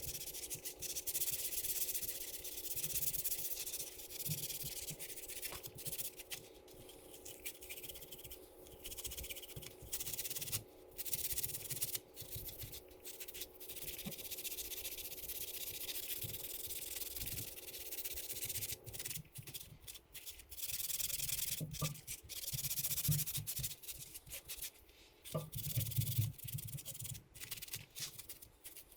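Hand scrubbing of a dirt bike engine's casing with degreaser, a pad or brush rubbing back and forth over the metal in irregular strokes with short pauses.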